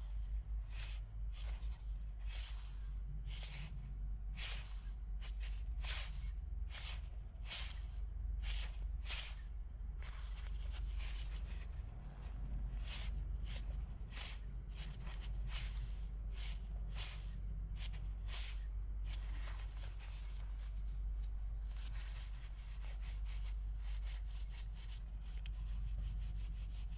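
A worn scooter crankshaft ball bearing being turned by hand, giving repeated short gritty rubbing strokes over a low hum. The strokes come about two a second at first and closer together later. The roughness is the sign of the bearing that had been making an abnormal noise.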